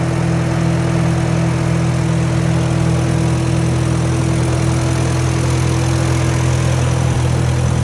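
Case 830 Comfort King tractor's four-cylinder gasoline engine idling steadily, with no change in speed.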